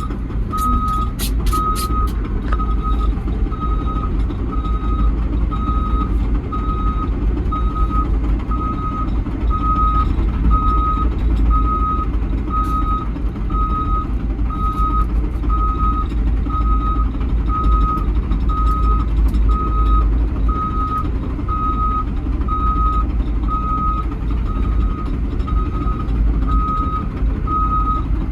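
Caterpillar 315G excavator travelling on its tracks, its travel alarm beeping steadily about once a second over the low, steady rumble of its diesel engine. A few sharp clanks sound in the first couple of seconds.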